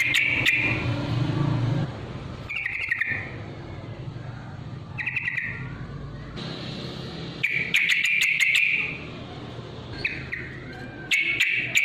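Yellow-vented bulbul (trucukan) giving short, loud chattering call phrases, about five of them, one every two and a half to three seconds: its fighting call, played as a lure to provoke other bulbuls to sing.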